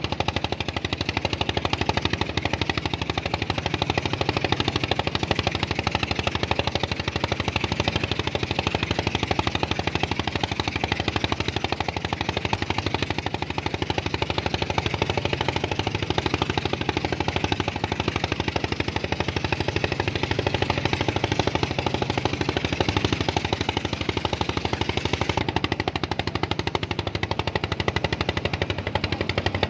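A small engine running steadily, with a rapid, even chugging.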